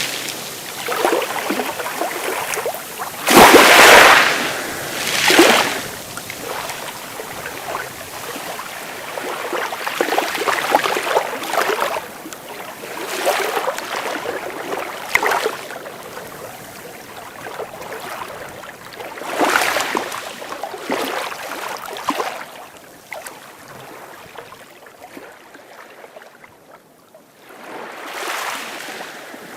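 Sea waves breaking and washing up on a beach, one surge after another, the loudest about three and a half seconds in. The wash dies down to a lull shortly before the end, then the next wave builds.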